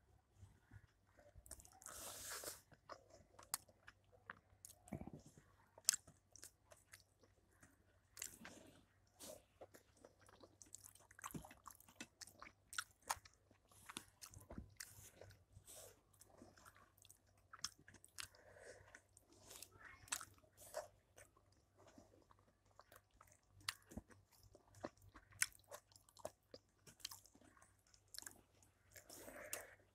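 A person chewing a mouthful of rice and curry eaten by hand, with irregular sharp clicks and crackles of chewing throughout.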